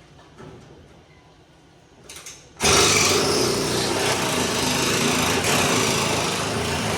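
A loud motor-driven machine starts suddenly a little under three seconds in and runs steadily with an even hum.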